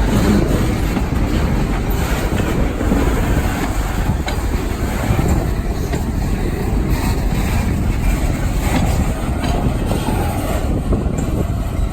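Train rolling past on the rails: a steady rumble of wheels with scattered clicks from the track.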